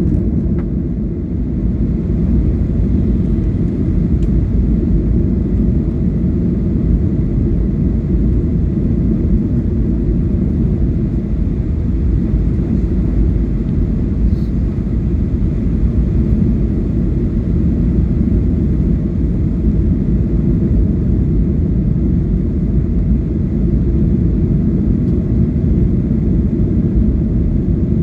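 Steady low rumble of an airliner heard from inside the passenger cabin: engine and airflow noise running evenly.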